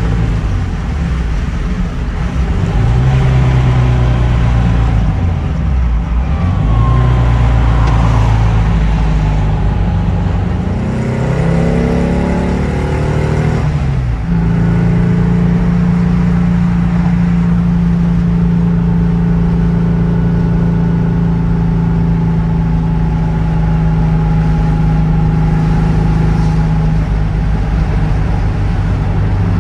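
1956 Porsche 356A outlaw coupe's air-cooled flat-four engine heard from inside the cabin. It revs up and eases off several times, climbs in one long pull to a gear change about halfway through, then holds a steady cruise.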